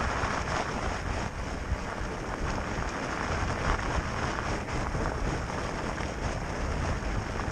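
Riding noise from an electric fatbike on gravel: wind buffeting the camera microphone over a steady rumble of fat tyres rolling on gravel.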